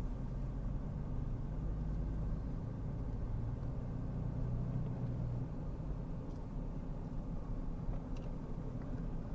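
Car driving, heard from inside the cabin: a steady low engine hum with road noise, the hum easing a little about five and a half seconds in.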